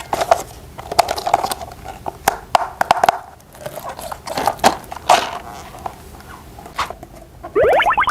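Plastic toy parts clicking and knocking as they are handled and fitted together. Near the end comes a short rising tone.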